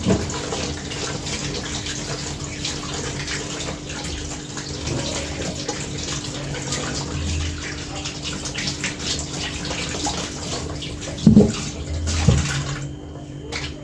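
Water running from a tap as hands are washed under it, with two knocks about a second apart near the end, just before the water stops.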